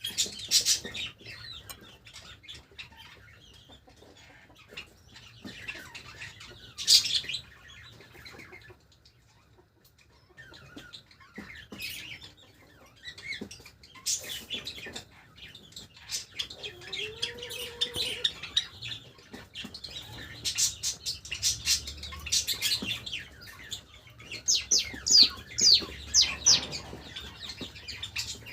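Pet Java sparrows chirping and calling in scattered bursts of short, high notes, with wings fluttering. The loudest part is a quick run of chirps near the end.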